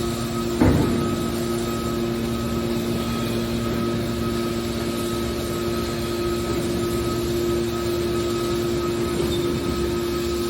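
Aluminum waste baler running with a steady mechanical hum, with one sharp clank about half a second in.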